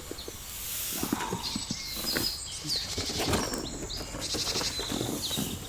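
Small birds chirping with short high notes, over scattered low knocks and rustling.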